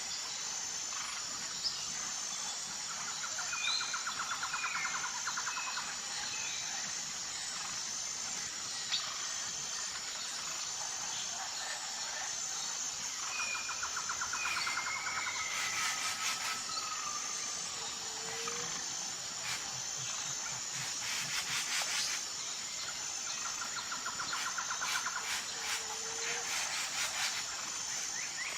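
Tropical forest ambience: a steady, high, pulsing insect chorus under birdsong. A bird gives a short trill three times, about every ten seconds, among scattered chirps and whistles. Fast rattling calls come in about halfway through.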